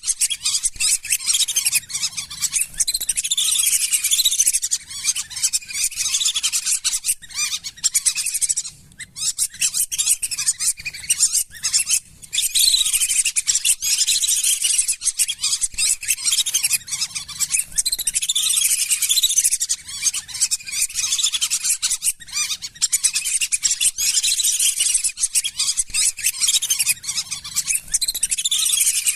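A flock of lesser whistling ducks calling: a dense, continuous chatter of high, thin whistles, with brief lulls about nine and twelve seconds in. It is a lure call for drawing wild whistling ducks in.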